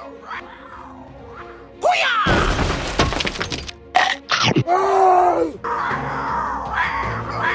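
Background music with cartoon sound effects: a sudden loud crash about two seconds in, then sliding whistling tones in the middle.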